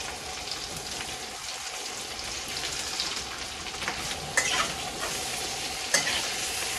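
Boiled potato cubes sizzling as they fry in hot oil in a kadhai, with a spatula clattering against the pan a couple of times in the second half as they are stirred.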